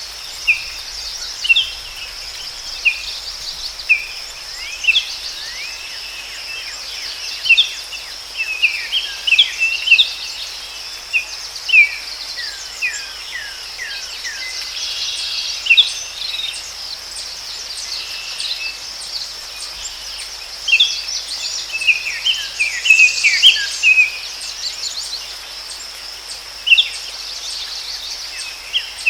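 Forest ambience: a steady, high-pitched insect drone with many short bird chirps and whistles throughout, thickest around the middle and again after about twenty seconds.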